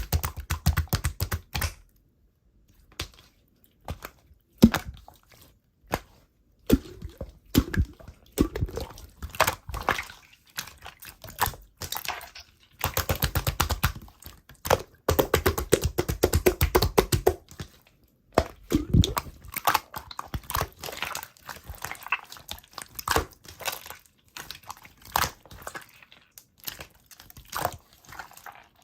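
Slime being squished and pressed by hand, making rapid runs of wet clicks and pops in spells of a few seconds with brief pauses.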